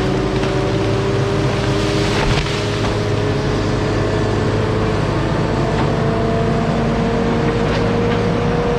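An engine running steadily, its pitch creeping slowly up.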